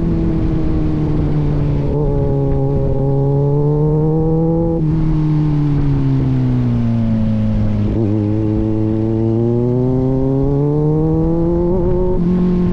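Kawasaki Z900 inline-four with an aftermarket AR exhaust running under way. The engine note falls steadily, then climbs again, with an abrupt step in pitch about five seconds in and again near the end.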